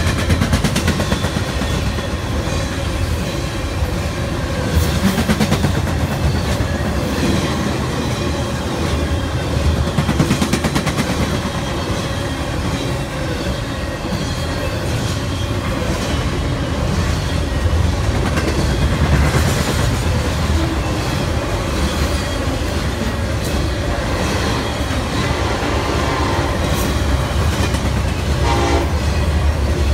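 Intermodal freight train rolling past close by: steady rumble with the clickety-clack of wheels over rail joints. Near the end, an approaching diesel locomotive's horn sounds.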